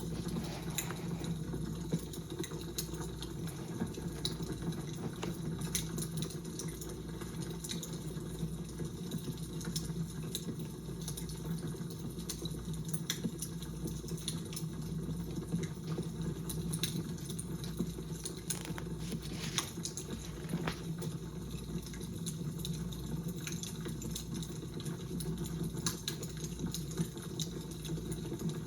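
Fire crackling: a steady low rush with frequent small, sharp snaps and pops scattered through it.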